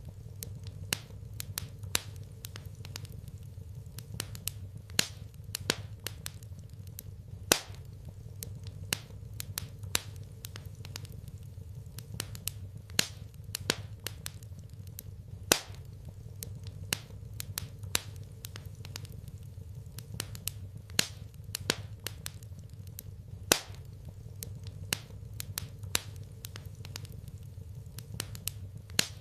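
Wood fire in a fireplace crackling: irregular sharp pops and snaps, a few of them much louder, over a steady low rumble.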